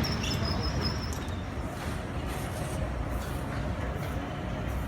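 Steady low rumble of a moving vehicle, with a faint high whine that fades out about a second in.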